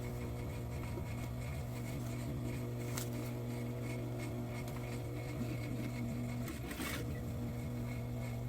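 Sewing machine motor humming steadily while it idles, with a brief click about three seconds in and a short rustle near seven seconds.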